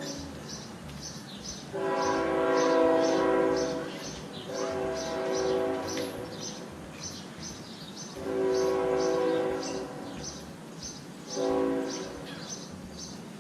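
Train horn sounding several blasts, three long and one short near the end, over a steady rapid high ringing.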